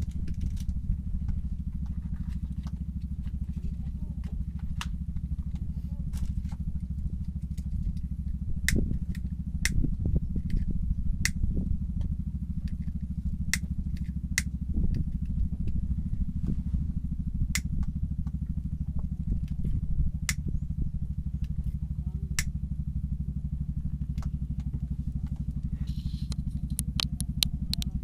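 A small engine running steadily at an even speed, with scattered sharp clicks over it.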